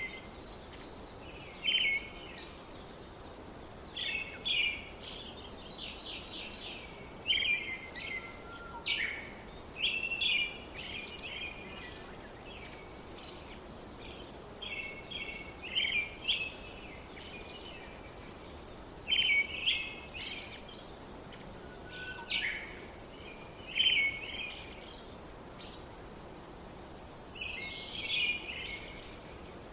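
Birds singing in short, high chirping phrases that recur every second or two, over a faint steady background hiss.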